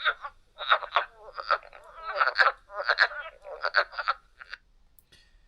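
Recorded frog calls: a series of short, rough croaking notes, a few a second, that stop about four and a half seconds in.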